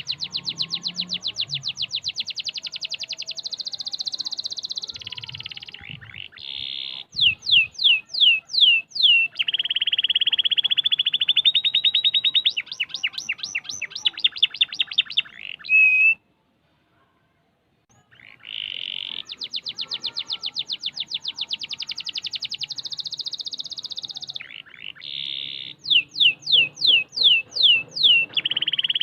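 Domestic canary singing in tight, rapid rolling trills, with runs of quick downward-sweeping whistled notes between them. The song stops for about two seconds midway, then the same phrases repeat.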